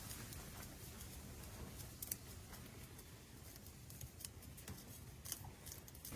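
Faint scattered clicks and small handling noises over a steady low rumble.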